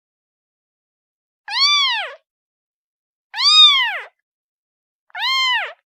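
Kitten meowing three times, each call under a second long and rising then falling in pitch: a kitten calling for its mother.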